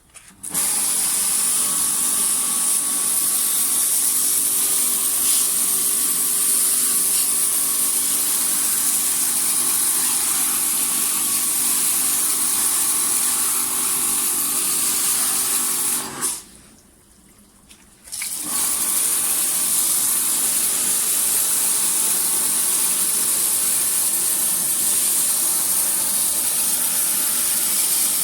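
High-pressure washer gun spraying water over a car's engine bay, rinsing off drying wax, with the washer's pump humming under the spray. The spray starts about half a second in, cuts out for about two seconds partway through, then resumes.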